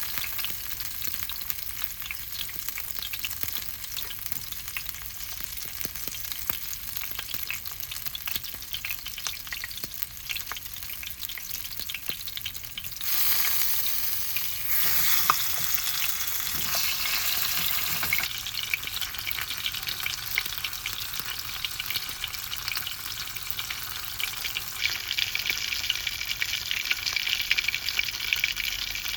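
Bone-in Awa-odori chicken frying in a pan, a steady sizzle with crackling spits, louder for a few seconds in the middle.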